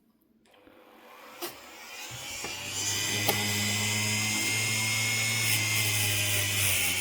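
A small electric motor spins up over about two seconds, then runs steadily with a high whine, a low hum and a hiss.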